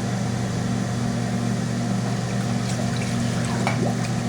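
Steady low machine hum from the hydro-dipping tank, with a few faint water splashes about three seconds in as the canopy goes into the water.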